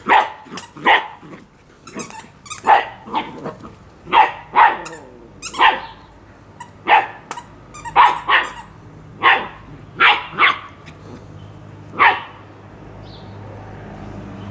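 A dog barking repeatedly, about fifteen short, sharp barks at irregular intervals of half a second to a second, stopping about twelve seconds in.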